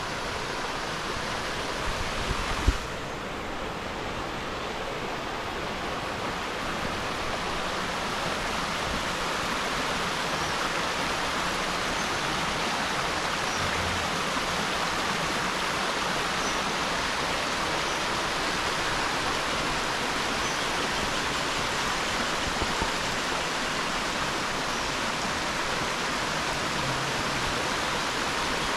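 Waterfall rushing steadily, an even hiss of falling water. A single short thump about three seconds in.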